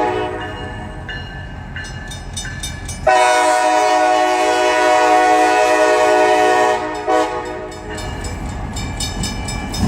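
CSX freight locomotive's air horn sounding: a chord that swells into one long, loud blast for about four seconds, then drops back. A grade-crossing bell rings steadily around it.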